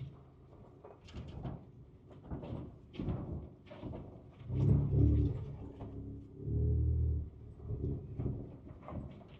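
Ford Ranger Raptor's 3.0-litre twin-turbo V6 heard from inside the cab on a rough trail, swelling twice under short bursts of throttle, about halfway through and again near seven seconds, amid repeated knocks and rattles as the truck goes over the rough ground.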